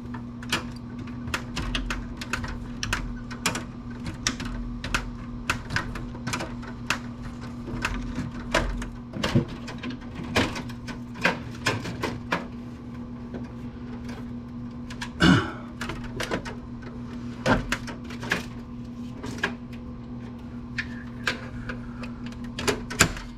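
Irregular clicks, taps and knocks of hands and tools working loose parts from a computer's metal and plastic case, over a steady low electrical hum.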